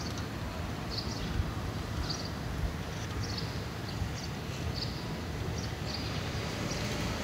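Outdoor street ambience: a steady low rumble, with a small bird chirping about once a second.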